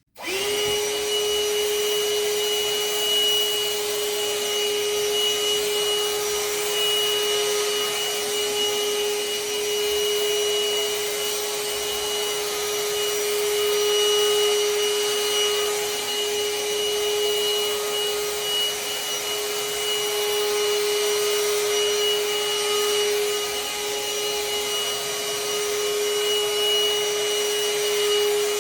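Parkside PHSSA 20 Li C1 20 V cordless handheld vacuum cleaner switching on and running with a steady whine and rushing air. It is vacuuming a carpet through its extension hose.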